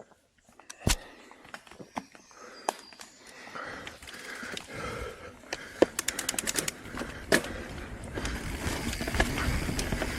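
Mountain bike setting off down a trail: scattered sharp knocks and clicks from the bike, a quick run of ticking about six seconds in, then rolling tyre and trail noise building over the last couple of seconds as it picks up speed.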